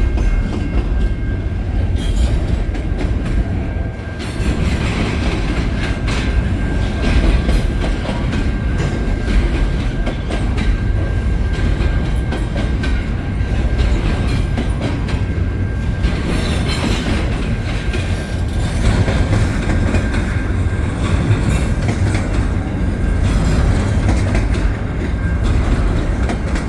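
CN freight train cars rolling steadily past at close range: a continuous low rumble with wheels clattering over the rail joints, under a faint steady high-pitched squeal.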